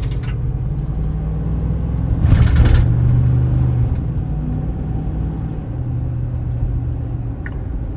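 2016 Ram 5500 truck's 6.4-litre gasoline Hemi V8 running under way with a steady low hum, heard from inside the cab, with a brief louder rush of noise about two seconds in.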